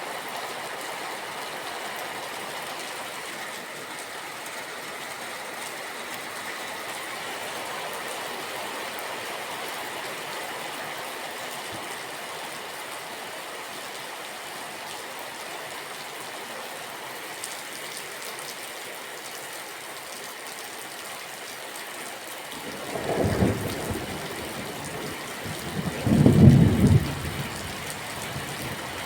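Steady rain falling, then thunder rumbling twice in the last few seconds, the second rumble the loudest, with a third beginning right at the end.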